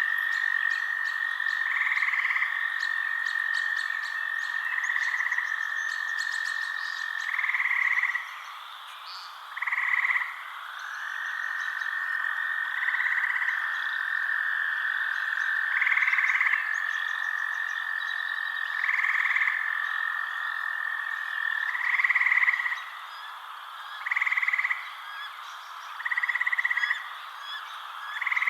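Night chorus of frogs: a steady high trilling drone with a louder call repeating every two to three seconds, and faint high ticking chirps above it. The drone drops out for a couple of seconds about a third of the way in.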